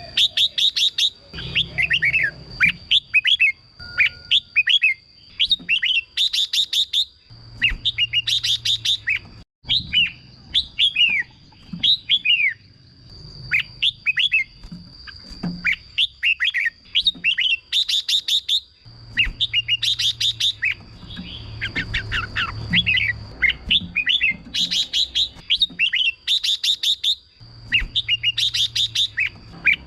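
Red-whiskered bulbul singing: bright, rapid phrases of quick up-and-down whistled notes, repeated every second or two with short gaps. A thin, steady high tone runs underneath.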